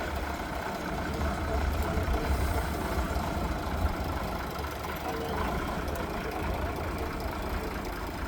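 Heavy truck engine running steadily at a low, even rumble.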